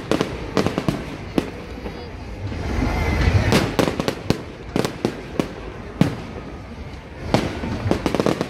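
Fireworks display: aerial shells and fountains going off in an irregular string of sharp bangs and cracks, often several a second, with a low rumble building about three seconds in.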